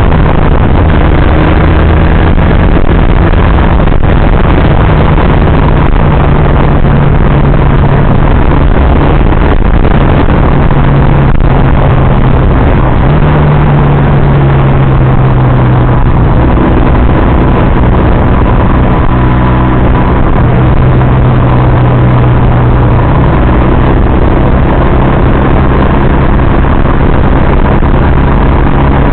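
Motorcycle engine running steadily under way, its pitch shifting a few times as the revs change, under a loud, constant rushing noise.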